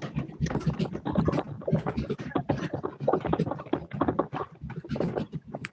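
A group of people making a rainstorm sound with their hands: a dense, irregular patter of many overlapping claps and slaps, like heavy rain.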